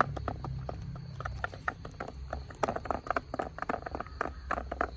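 Chickens pecking at their feed: quick, irregular taps, several a second.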